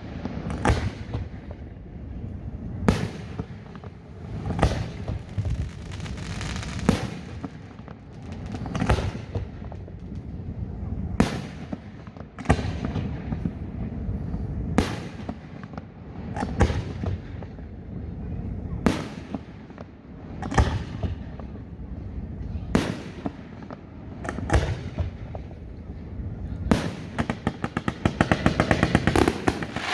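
Aerial fireworks bursting, a sharp bang every second or two with a low rumble between. Near the end a fast run of crackling pops sets in.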